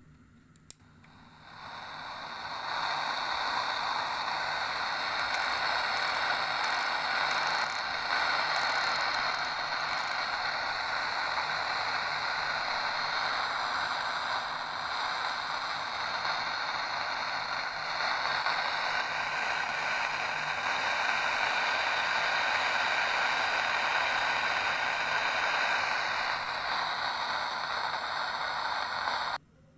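Sony ICF-J40 portable radio's speaker hissing with static, with no station or music: a click, then the hiss swells up over a second or so, holds steady and cuts off suddenly near the end.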